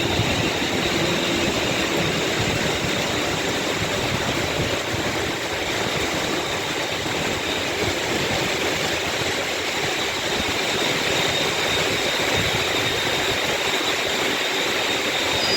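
Steady rush of heavy rain and wind, with a faint, steady high whine from an electric multiple unit.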